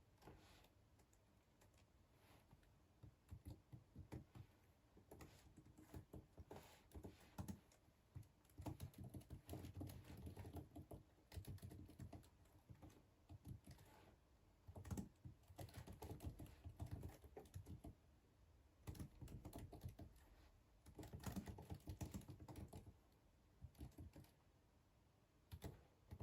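Quiet typing on a computer keyboard: runs of rapid key clicks lasting a second or two, broken by short pauses.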